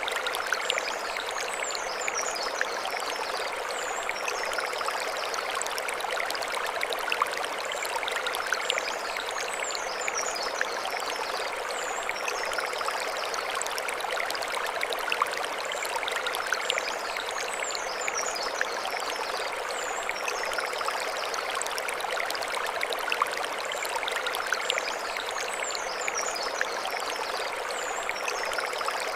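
Mountain stream flowing over stones: a steady rush of water. A short run of high chirps recurs about every eight seconds.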